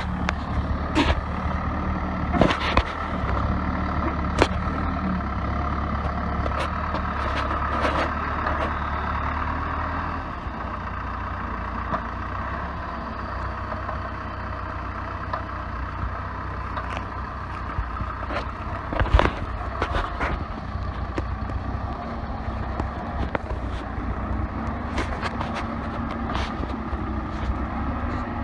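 Case 580B backhoe's four-cylinder diesel engine running steadily as the machine is driven slowly, with scattered clicks and knocks over it. It gets a little quieter about ten seconds in.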